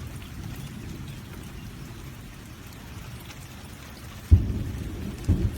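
Rain falling and water running down a rain chain, with a steady low rumble that gets suddenly louder near the end.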